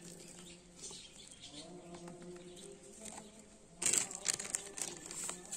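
Amla gooseberries being stirred and tossed in a container while being mixed for pickle: light scattered ticks, then a burst of rattling clatter about four seconds in.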